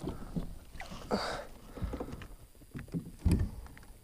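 Scattered splashes, knocks and handling noises in a fishing kayak as a hooked bass is brought in, with a louder thump about three seconds in.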